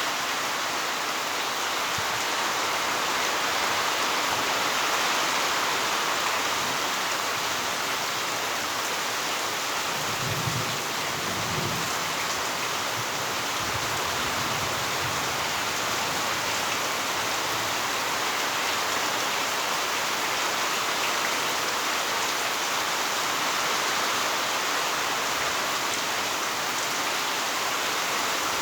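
Heavy rain falling steadily, a dense unbroken hiss of rain on surfaces, with a brief low rumble about ten seconds in.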